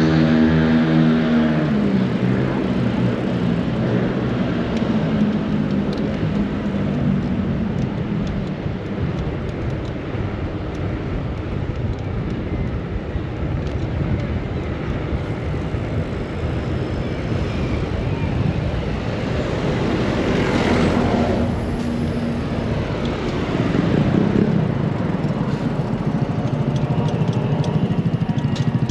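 City street traffic heard from a moving bicycle: a steady wash of road noise, with an engine hum that fades out about two seconds in and vehicles passing close about two-thirds of the way through.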